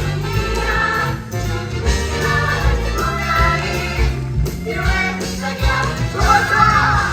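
A musical-theatre song: several voices singing together over a backing track with a steady bass line, one voice holding a note with vibrato near the end.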